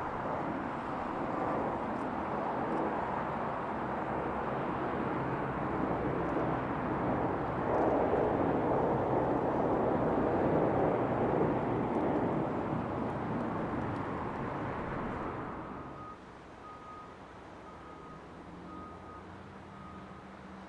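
Jet airliner passing by, its engine noise swelling to a peak and then breaking off suddenly. After the break, a quieter background with a short high beep repeating about once a second.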